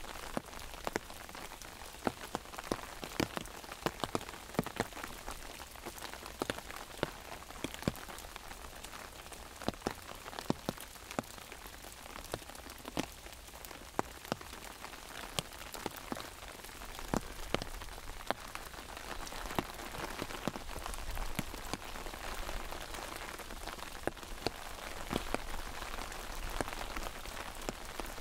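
Rain falling on an umbrella overhead: a steady hiss of rain with many irregular sharp taps of single drops striking the canopy.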